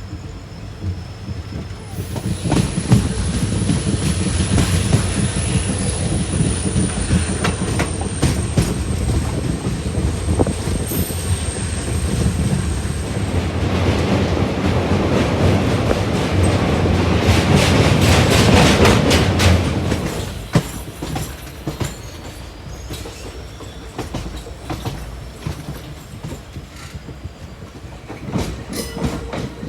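A passenger train rolling on the rails with a steady rumble and clickety-clack of wheels over rail joints. A thin high wheel squeal sounds through the first half. The train noise dies down about twenty seconds in, leaving a quieter rumble.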